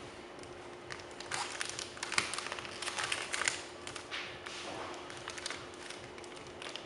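Crinkling and rustling, as of wrapping or packaging being handled, in irregular bursts that come in clusters, over a faint steady hum.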